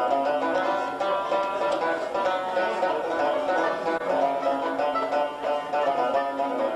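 Music on a plucked string instrument: a quick, steady run of picked notes.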